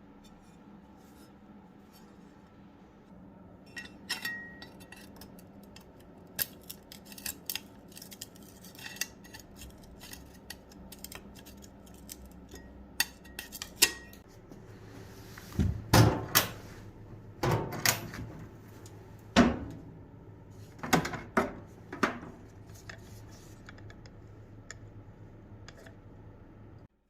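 Scattered metallic clinks and knocks of metal tools and a rusty butcher's axe being handled on a workbench, sparse at first and louder and more frequent from about halfway through, with a faint low hum joining in then.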